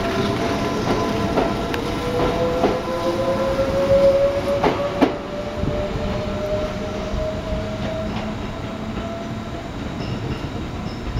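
Tobu 8000 series electric train pulling out and accelerating: the traction motor whine climbs steadily in pitch while the wheels clack over rail joints in pairs, then the sound fades as the train draws away.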